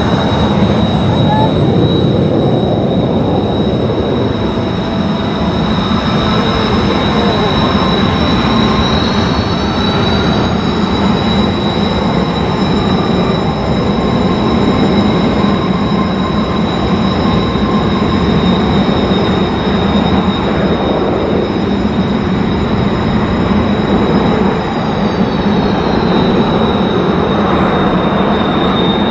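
F-35A's Pratt & Whitney F135 turbofan running on the ground: a loud steady roar with a high whine. The whine rises in pitch about a third of the way in, holds, and drops back near the end.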